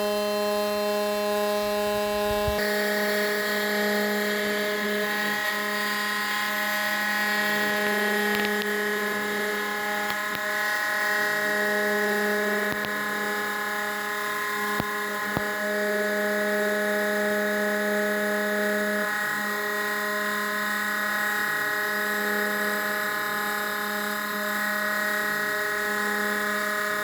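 Snapmaker CNC spindle running steadily as it mills isolation tracks into the copper of a PCB, a whine made of several steady tones. The sound shifts about two and a half seconds in, and a few of the tones come and go as the head moves.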